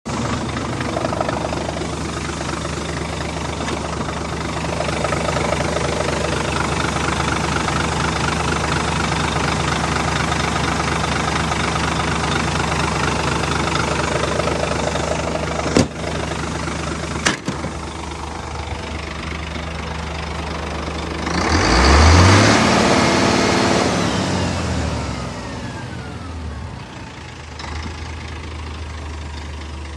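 Scania 114 380 truck's 11-litre inline-six diesel idling steadily, with two sharp clicks past the middle. About 21 seconds in it is revved once, loudest around 22 seconds, then the revs fall back to idle.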